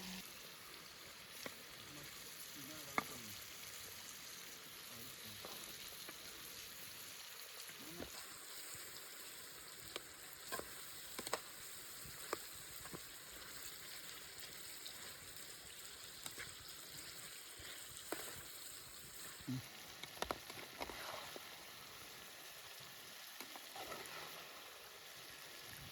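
Food sizzling as it cooks, a steady hiss with scattered sharp clicks and pops.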